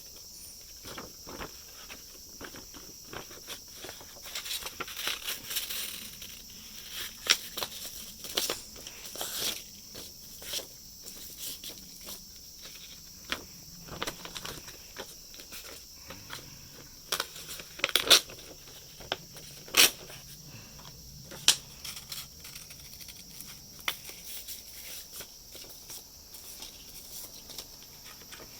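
Fine-grit sandpaper rubbing by hand on the 3D-pen plastic fill of an eyeglass frame: irregular scratchy strokes, broken by sharp clicks and taps as the frame and paper are handled. Steady high insect chirring runs underneath.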